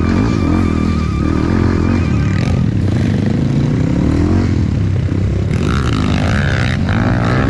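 Dirt bike engine running under throttle, its pitch rising and falling repeatedly as the gas is worked on and off. A thin steady high tone sounds over it for the first two seconds or so.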